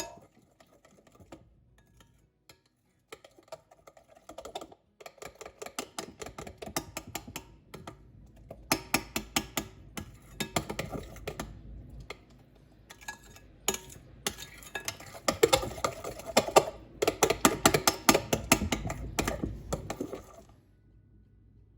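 Rapid runs of light clicks and taps in bursts, stopping shortly before the end.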